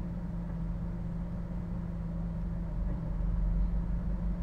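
Car engine idling, heard inside the cabin: a steady low hum, with a deeper rumble swelling about three seconds in.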